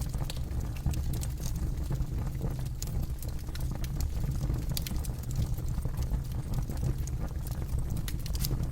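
Wood fire burning, with a steady low rumble of flames and frequent irregular crackles and pops of burning wood.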